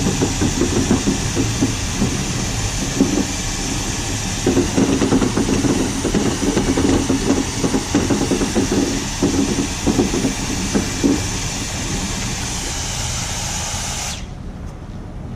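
A machine running steadily with a strong hiss over it. The hiss cuts off suddenly near the end, and the low running sound carries on.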